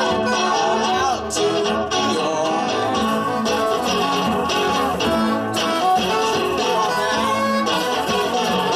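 Live band music: an instrumental passage of a folk-rock song, with guitar to the fore and a melodic line moving over it.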